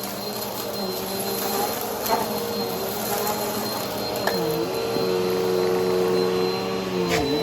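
Brushroll vacuum cleaner running with a steady motor hum. Its pitch dips briefly about four seconds in and again near the end, and a few sharp clicks come through.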